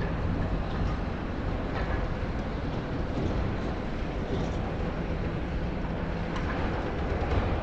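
Diesel engines of high-reach demolition excavators running steadily at a working site, with a few faint cracks of concrete being broken.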